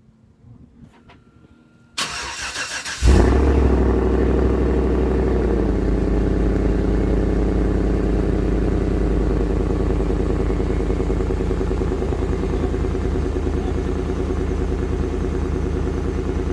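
A 2014 GMC Yukon XL's V8 cold-starting in freezing weather: the starter cranks for about a second, the engine catches with a loud flare of revs, then settles a few seconds later into a steady idle.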